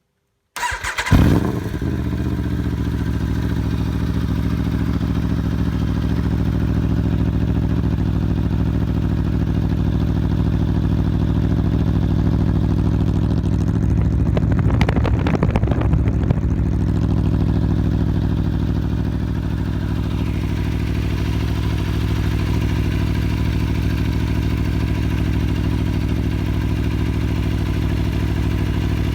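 Aprilia Tuono V4 1100's V4 engine running at a steady idle through its exhaust. It cuts in abruptly about half a second in with a brief rev, and gets one short blip of the throttle around the middle.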